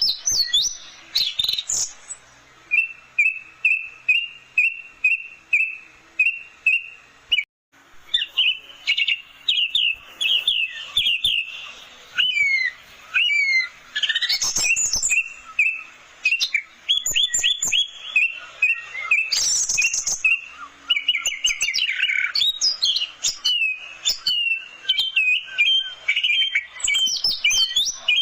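Orange-headed thrush singing: runs of quick repeated notes at a steady pitch alternate with varied phrases of sweeping and rising whistles and higher trills. The song breaks off briefly about seven and a half seconds in.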